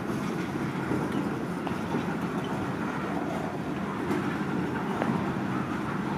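Loaded freight hopper cars rolling very slowly past on the rails: a steady low rumble of steel wheels on track, with a few faint clicks.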